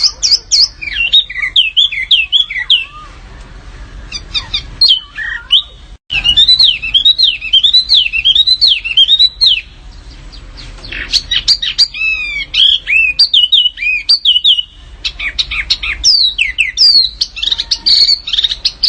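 Small songbird song: rapid runs of high whistled notes that swoop up and down, mixed with chirps and short trills, in phrases of a few seconds separated by brief pauses. The sound cuts out for an instant about six seconds in.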